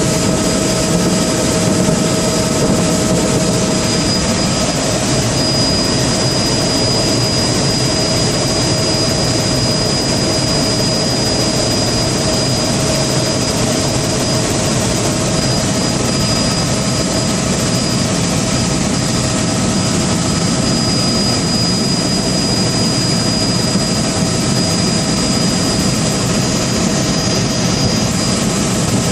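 Steady, loud engine drone with several constant whining tones running through it, unbroken throughout.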